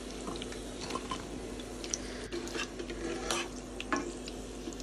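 Chicken pakoras frying in hot mustard oil, with scattered light crackles and a slotted metal skimmer stirring and scooping them out of the kadhai, over a steady low hum.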